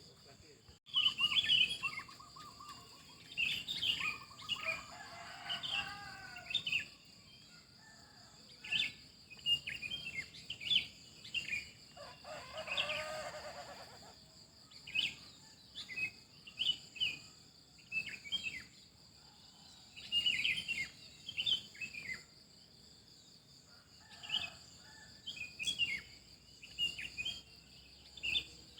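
Several songbirds chirping in short, repeated calls over a steady high insect drone, with a few lower, drawn-out bird calls about a second in, around five seconds in and around thirteen seconds in.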